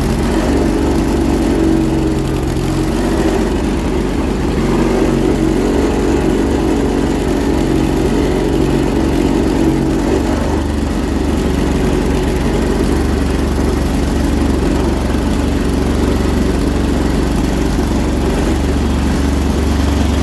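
John Deere 317 garden tractor's twin-cylinder engine running steadily as the tractor is driven, its note changing about halfway through.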